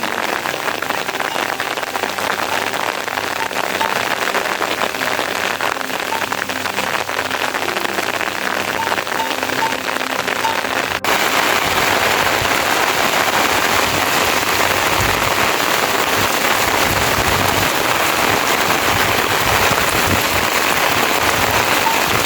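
Heavy rain falling, a dense steady hiss. About halfway through it cuts suddenly to louder, fuller rain.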